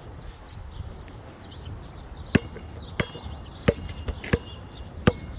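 Footsteps on hard ground, five sharp steps evenly spaced about two-thirds of a second apart starting a little before halfway, with gusty wind rumbling on the microphone early on.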